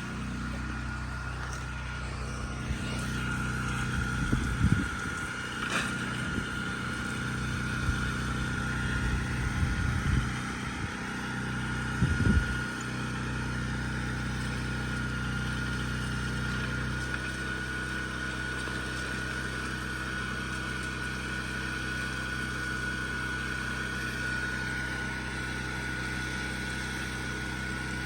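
A small engine running steadily at a constant speed, its low note shifting slightly a little over halfway through. A few short knocks and handling noises come in the first half.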